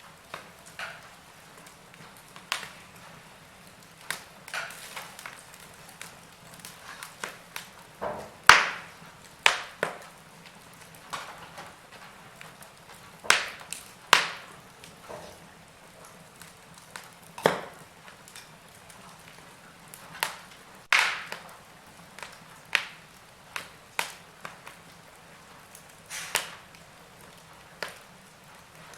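Wood fire in a fireplace crackling: irregular sharp pops and snaps, about one a second and varying in strength, over a faint steady hiss. The loudest snaps come about eight to ten seconds in and again around thirteen to fourteen seconds.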